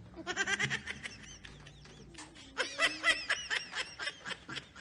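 Laughter in a rapid run of short, high-pitched bursts, softer in the middle and loudest about two and a half seconds in.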